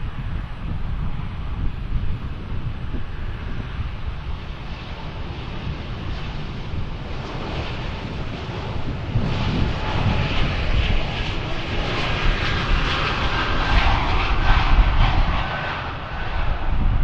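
Airliner's engines running at takeoff power: a steady low rumble, then a roar that builds, is loudest a few seconds before the end, and then eases off.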